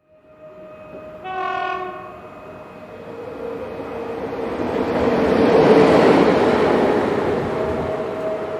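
A train gives one short horn note and then runs past, its rumble and hum building to a peak over a few seconds before easing slightly.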